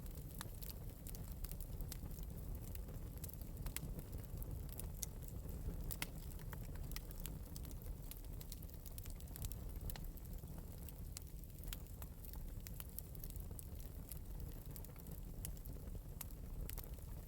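Fire in an open metal fireplace, lightly crackling: irregular sharp crackles and pops over a steady low rumble of the flames.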